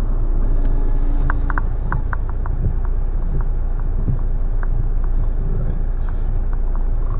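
Car driving on a slippery, snow-covered road, heard from inside the cabin: a steady low rumble of engine and tyres, with scattered light ticks.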